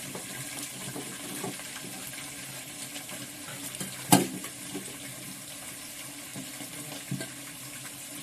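Chicken pieces sizzling steadily as they fry in hot oil in a pan. A sharp knock about four seconds in is the loudest sound, with a lighter one near the end.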